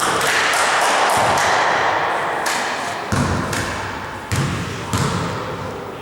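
A basketball bouncing on a court, three separate thuds in the second half. In the first half there is a loud, noisy stretch.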